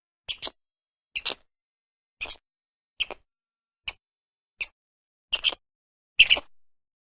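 A series of short, sharp animal calls, about one a second and many of them doubled, with the loudest pair about six seconds in.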